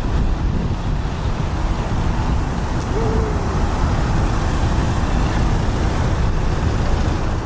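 Steady low vehicle and road-traffic rumble, with a short faint tone about three seconds in.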